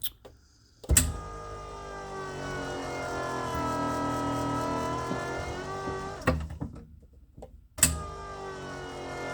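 Electric backup pump of a 2021 Blue Bird Vision school bus's hydraulic brakes whining with the engine off. It switches on with a click, runs about five seconds at a steady pitch that rises a little and then eases, cuts off with a click, and starts again after another click near the end.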